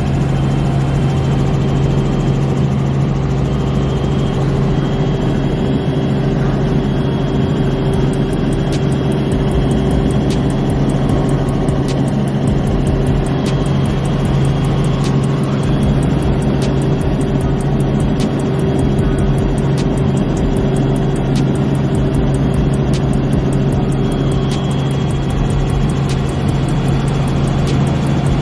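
A steady engine drone with a constant low hum that does not change in pitch.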